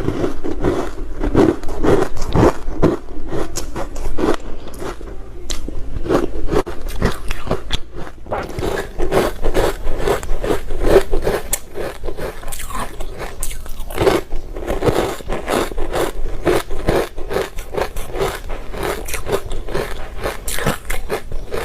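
Close-miked crunching of ice being bitten and chewed, a continuous run of sharp crackles several times a second.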